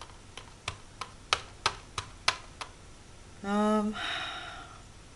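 A quick run of about eight light clicks, small hard art supplies knocking together as they are picked through. Then comes a short hummed "mm" and a soft breathy sound.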